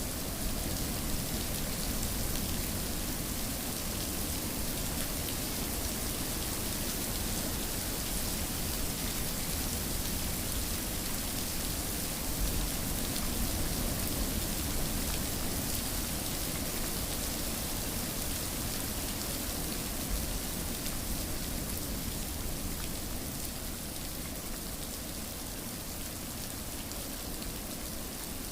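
Steady rainfall: a continuous, even hiss of rain with no breaks or distinct events.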